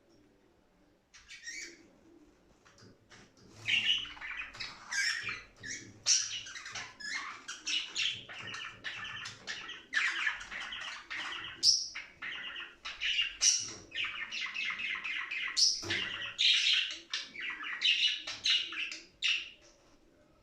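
Budgerigars warbling and chattering in quick, high-pitched runs of chirps. It starts with a few chirps about a second in, becomes a dense continuous warble, and stops shortly before the end, with one short knock partway through.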